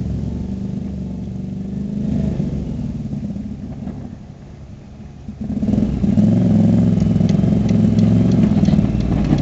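Motorcycle engine running under way. It fades to its quietest about four to five seconds in, then grows sharply louder and holds steady.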